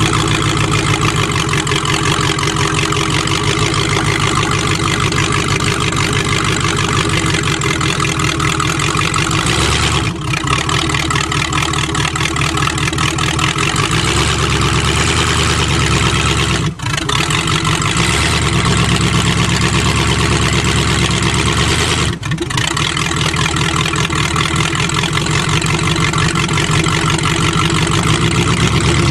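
Demolition-derby car's engine running steadily just after being revived from a hydrolock. The engine had water in a cylinder for seven months and is described as almost seized. The sound dips briefly three times, at about ten, seventeen and twenty-two seconds in.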